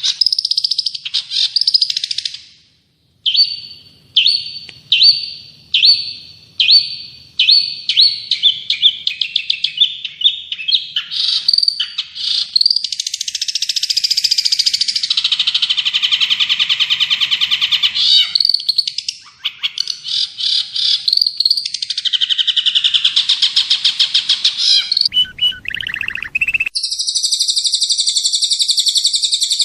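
Recorded songbird song, loud: a run of short down-slurred notes that speed up, then continuous rapid trills and warbles; after a brief break near the end a steady high trill starts.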